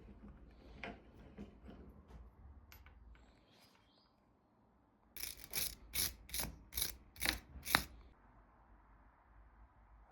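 Scattered mechanical clicks and knocks, then a run of about seven sharp clicks over some two and a half seconds; no engine is running.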